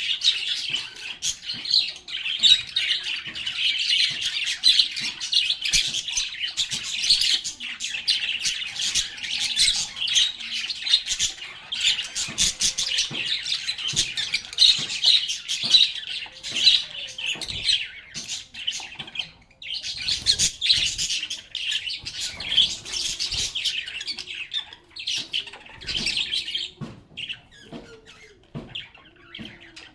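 A group of lovebirds chattering, a dense stream of many overlapping shrill chirps and squawks. The calls break off briefly about two-thirds of the way through and grow sparser near the end.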